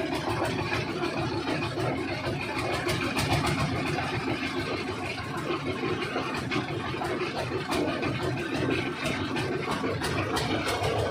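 An engine running steadily at a low, even pitch, with faint clicking over it.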